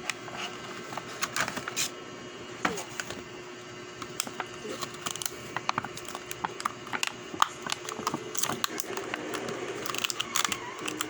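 Plastic packaging and toy pieces being handled: a dense run of irregular sharp clicks and crinkles, busiest near the end.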